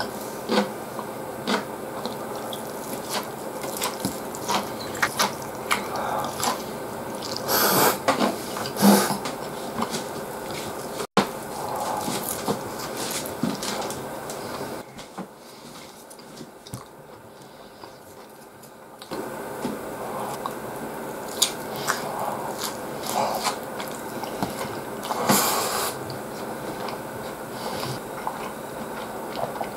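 Close-up eating sounds: chewing and wet mouth smacks while eating fried pork cutlet and rice, with scattered small clicks of chopsticks. It goes quieter for a few seconds about halfway through.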